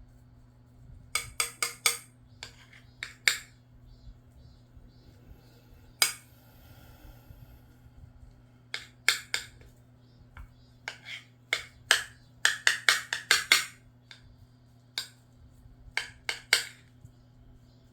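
Close-up eating sounds of a person eating rice with scrambled eggs: sharp clicks and smacks in short bursts, with a dense run of them near the end, over a steady low hum.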